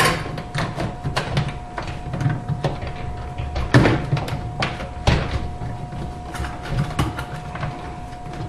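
Irregular clicks and knocks of plastic dishwasher parts being handled and pressed into place during a sump and seal replacement, with two sharper knocks about four and five seconds in.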